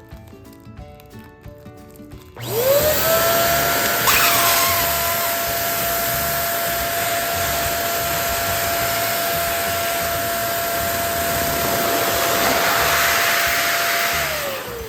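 Electric balloon air pump spinning up about two seconds in and running steadily with a high, even hum while it blows up a balloon, then winding down near the end. A brief click comes shortly after it starts.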